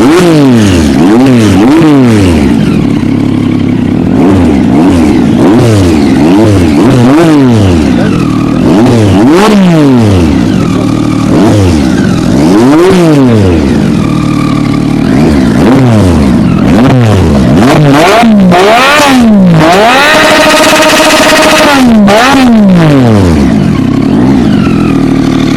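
Triumph Street Triple 675's inline three-cylinder engine revved repeatedly in quick blips, the pitch rising and falling about once a second, with one rev held steady for a couple of seconds near the end.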